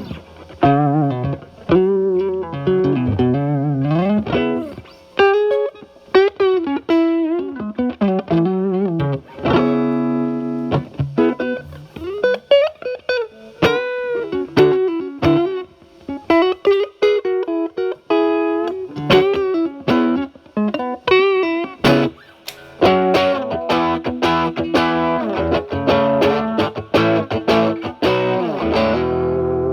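Stratocaster through a Paul Cochrane Timmy overdrive into a Marshall Valvestate amp, its volume knob rolled back to clean up the overdrive to a light breakup. It plays single-note lines with string bends and vibrato, then chords in the last several seconds.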